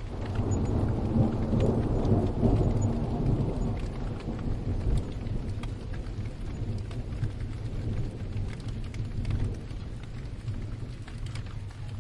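A long roll of distant thunder over steady rain: the low rumble swells in at the start, is loudest in the first few seconds and slowly dies away, while scattered raindrops tick throughout.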